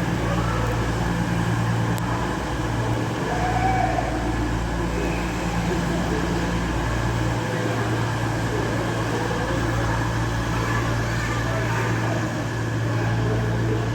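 Steady low hum of a train standing at a station platform, with its low drone dipping briefly a few times, over general station noise.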